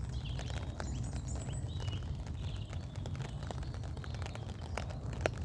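Outdoor ambience in the rain: a steady low wind rumble on the microphone, scattered raindrop ticks with a sharper one near the end, and a bird chirping faintly in the first two seconds.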